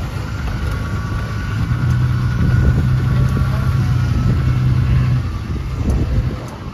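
Pickup truck engine running at low revs under load as it pushes a car along, a steady low drone that eases off briefly near the end.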